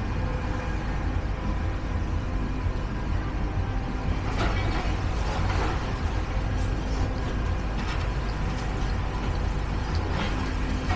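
Steady low rumble of heavy vehicle engines, with a few short clanks and knocks scattered through it.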